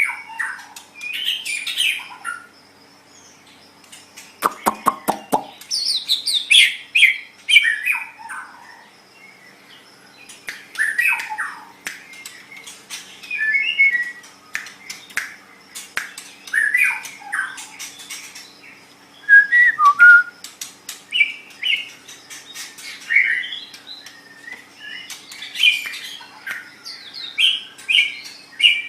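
White-rumped shama (murai batu) singing: a string of varied, fluty whistled phrases broken by short pauses, mixed with sharp clicks and a rapid rattle about five seconds in.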